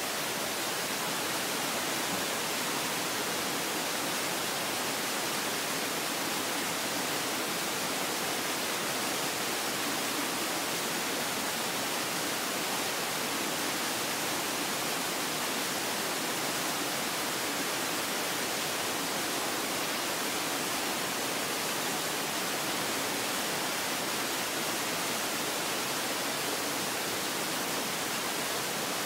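Waterfall pouring steadily, a constant even rush of water noise with no breaks or changes.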